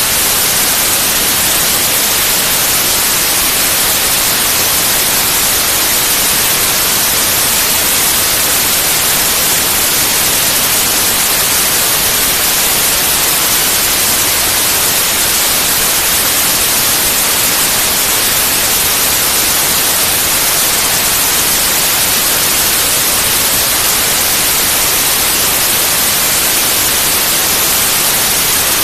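Pure white noise: a loud, even hiss with no change.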